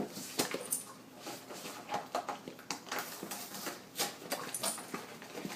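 A dog moving about on a hard floor: an irregular run of sharp clicks and taps from its claws and paws.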